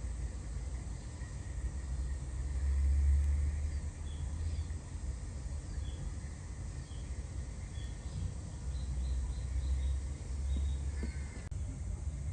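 Faint birds chirping, a run of short high notes repeated, over a steady low rumble that swells twice.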